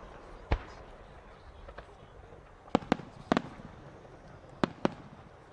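Aerial fireworks going off: about seven sharp bangs. A single one comes early, then most of the rest come in close pairs about a second apart.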